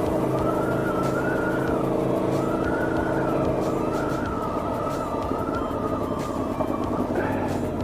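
The V4 engine of an Aprilia Tuono V4 1100 Factory motorcycle running on the road at a steady cruise, with wind noise. Its pitch shifts about halfway through. A higher tone wavers up and down about once a second over it.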